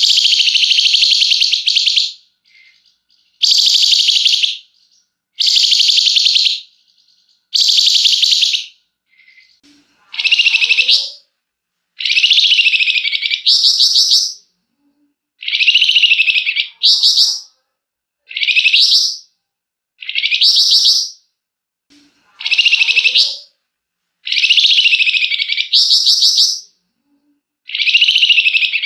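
Flamboyan songbird singing loud, buzzy, rapid trilled phrases about a second long, repeated roughly every two seconds. From about ten seconds in, each phrase rises in pitch and ends with a short separate burst. This is the tight, long 'ngebren' song of a bird in full song, used as a lure recording.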